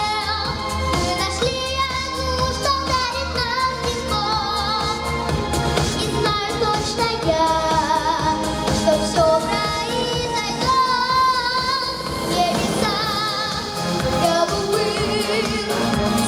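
A female vocalist singing a pop ballad with vibrato over an instrumental backing track.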